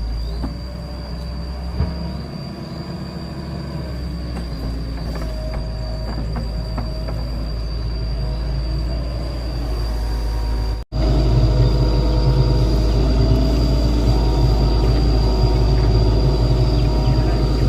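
Excavator's diesel engine running steadily, with a few light metallic clanks in the first half. The sound drops out for an instant about 11 seconds in and comes back louder.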